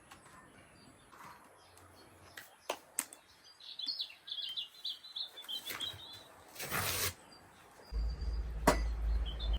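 A small bird singing a quick twittering phrase about four seconds in, with a few sharp clicks around it. Near the end there is a short rush of noise, then a low rumble with one sharp knock.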